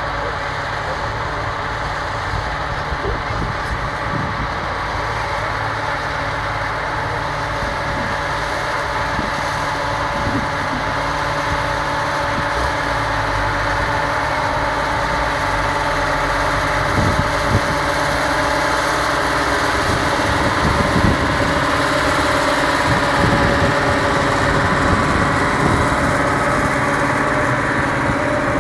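Muir Hill 171 four-wheel-drive tractor's diesel engine running steadily under load while pulling, getting gradually louder.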